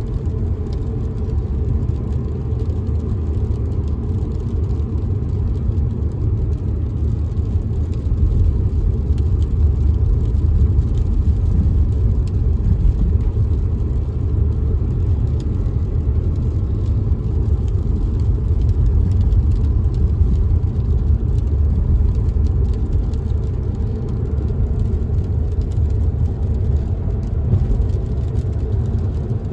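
Steady low rumble of a car driving on a wet road, heard inside the cabin, with faint raindrops tapping on the windows.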